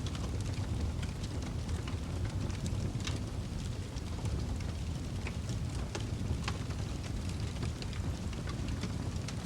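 Wood fire crackling in a fireplace: a steady low rumble of flames with many scattered sharp crackles and pops.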